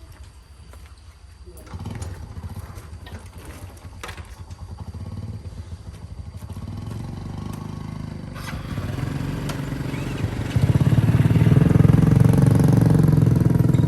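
Motorcycle engine running, growing steadily louder as it comes closer and loudest over the last three seconds.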